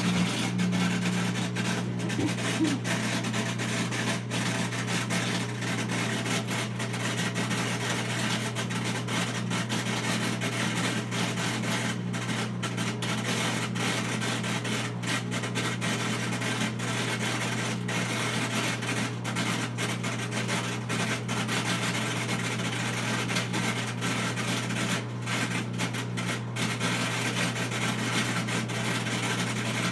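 Whirlpool front-load washer starting abruptly into a loud, steady low hum with a rasping noise over it, holding steady throughout: the problem noise it makes during its spin and drain cycle.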